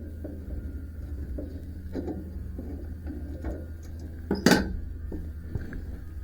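Scattered metal clinks and knocks from hand work on a bandsaw sawmill, with one loud clank about four and a half seconds in, over a steady low hum.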